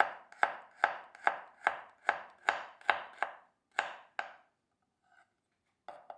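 Knife chopping on a cutting board in a steady rhythm of about two and a half strokes a second. The strokes stop about four and a half seconds in, with one light tap near the end.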